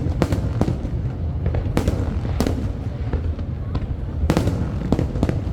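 Aerial fireworks shells bursting in an irregular string of sharp bangs, several close together at times, over a continuous low rumble.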